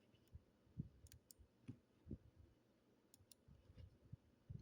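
Near silence with a few faint, scattered clicks and soft taps from working a computer to move between forecast pages.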